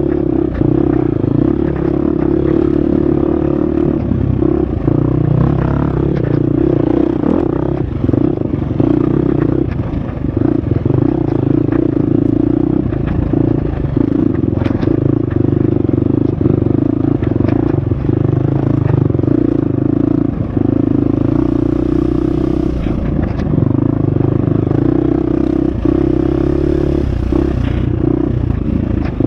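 Husqvarna FX 350 dirt bike's four-stroke single-cylinder engine running hard on a trail, its note rising and falling with the throttle, with frequent knocks and clatter from the bike bouncing over rough ground.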